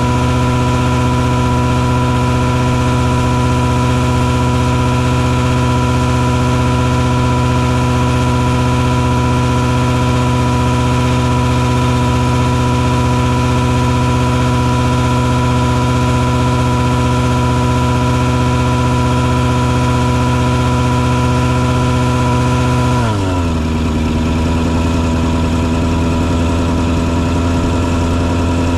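Engine of a mosquito-fogging truck rig running at a steady speed, its pitch dropping quickly about 23 seconds in and settling at a lower steady speed.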